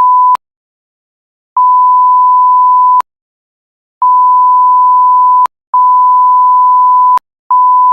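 Censor bleep: a pure, steady, loud beep at about 1 kHz, switching on and off in bursts of about one and a half seconds with dead silence between. One burst ends right at the start and four more follow, covering edited-out speech.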